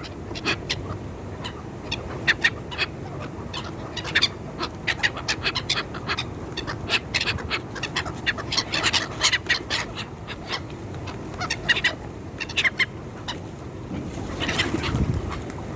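A crowd of gulls and other birds calling in short, sharp squawks, many in quick runs, as they mob a person for food. A low rumble swells briefly near the end.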